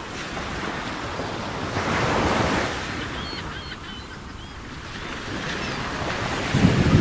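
Caspian Sea surf washing onto the beach, one wave swelling louder about two seconds in, with wind on the microphone. A few faint high chirps sound around the middle.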